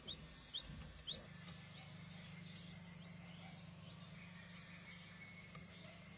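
Faint, short rising peeps of a young bird, several in quick succession near the start and sparser after that. A steady low hum sets in about a second in.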